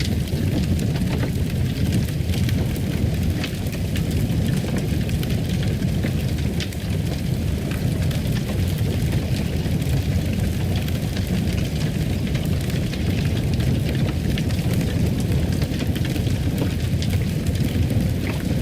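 Wood fire crackling in a fireplace: a steady low rumble of flames with many scattered sharp crackles and pops.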